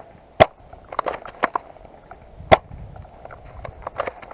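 Airsoft guns firing single shots: a scatter of sharp cracks at irregular spacing, the two loudest about half a second in and about two and a half seconds in.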